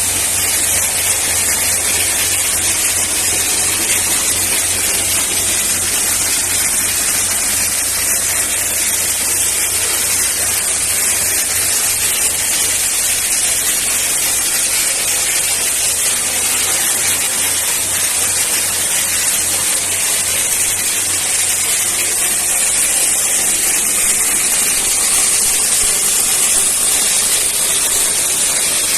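Dry ice blaster running, a loud steady hiss of compressed air and dry ice pellets blasting from the nozzle, with a low hum underneath that drops away about two-thirds of the way through.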